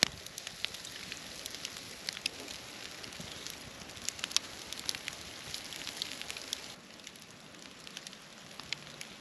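Wood campfire crackling, with sharp, irregular pops over a steady hiss.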